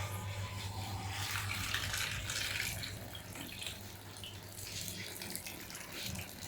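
PEL PAWM-900i automatic washing machine filling with water: a steady splashing hiss of water running into the tub over a low hum, easing somewhat about halfway through.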